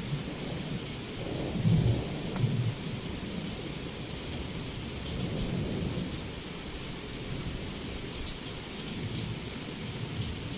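Heavy rain pouring steadily, heard through a window, with thunder rumbling low underneath. The loudest rolls of thunder come about two seconds in, and softer rumbles follow later.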